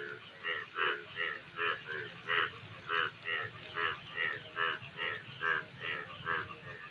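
Frogs croaking in a steady, rhythmic chorus of short pulsed calls, about three a second, some lower-pitched and some higher.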